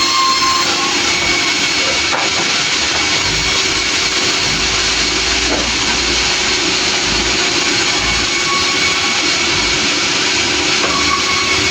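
Sawmill running: a loud, steady machine noise with a constant whine, unbroken throughout.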